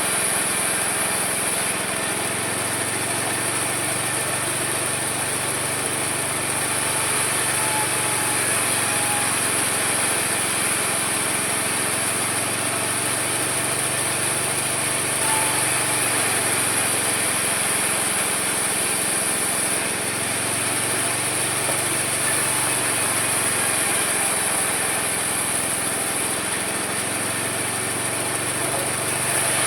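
Homemade mini sawmill running steadily while sawing wood: an engine-like drone with a constant high whine, its lower note slowly rising and falling.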